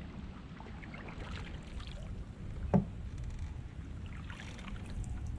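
Canoe being paddled: small splashes and drips from the paddle over a low rumble, with one sharp knock a little past halfway.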